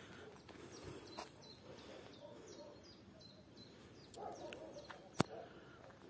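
Small songbirds chirping with a run of short high notes, over a low outdoor background hum; a single sharp click about five seconds in.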